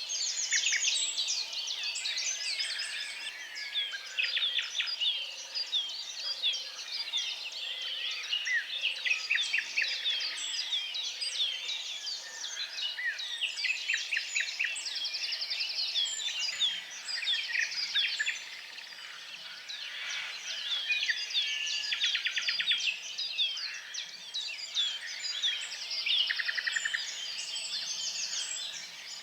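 Several songbirds singing at once: a dense, continuous chorus of overlapping chirps and fast trills.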